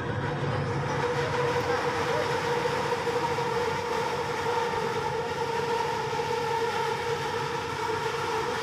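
Kelana Jaya Line LRT train running on an elevated track, heard from inside the front car: a steady rumble of running noise with a constant whine over it.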